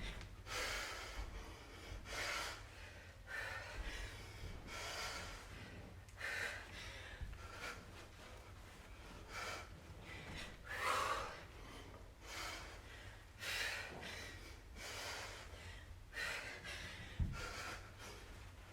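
A woman breathing hard from exertion: short, sharp breaths and exhales about once a second, with a single low thud near the end.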